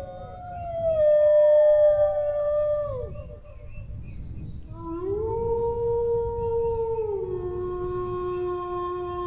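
Dog howling in long drawn-out howls. One howl slides down and fades about three seconds in. After a short pause another howl rises, holds, and drops to a lower pitch about two seconds later, still going at the end.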